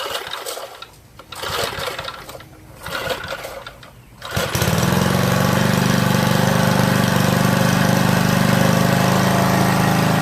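A rototiller's small gasoline engine being pull-started: a few short bursts of cranking on the recoil starter, then about four seconds in it catches and runs steadily and loud after its service.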